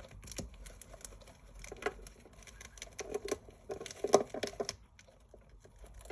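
Hamsters scuffling over a piece of dry rusk: quick irregular scrabbling and clicking, loudest in a flurry about four seconds in, then quieter.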